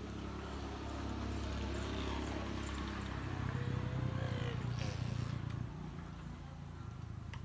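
A low, steady motor hum that grows louder about three seconds in and eases off again near six seconds.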